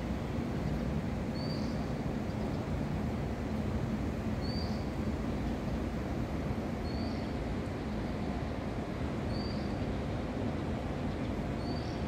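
A bird giving a short, high single call about five times, one every two to three seconds, over a steady low background rumble.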